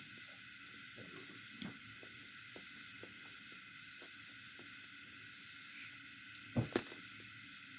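Soft chewing and mouth sounds of someone eating a meal by hand, as faint short knocks, over a steady hiss with a fast, regularly pulsing chirp. Two sharper, louder clicks come close together about a second before the end.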